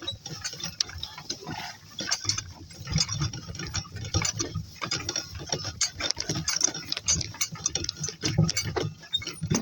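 A cart rattling and clicking over rough ground as it is pushed along, with irregular knocks throughout.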